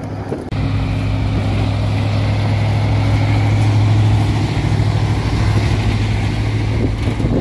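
Engine of a 1970s Ford F-150 pickup running steadily under load as it tows a heavy van on a car trailer at low speed, a low even drone that starts abruptly about half a second in.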